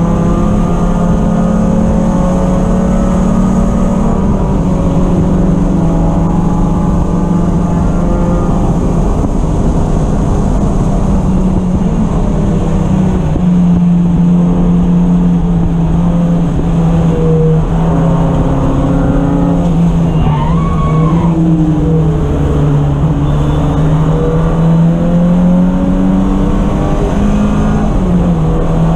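Race car engine running hard on track, its pitch easing and climbing through gear changes and corners, with a clear drop and rise in revs about twenty seconds in.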